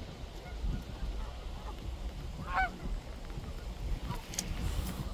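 A flock of waterfowl calling by a pond, with one loud call about two and a half seconds in and fainter calls scattered around it, over a steady low rumble.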